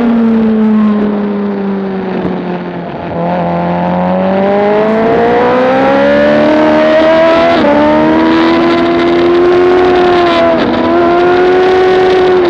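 Motorcycle engine running hard on a racetrack: the revs fall for about three seconds, then climb steadily, with short dips at gear changes about halfway through and again near the end.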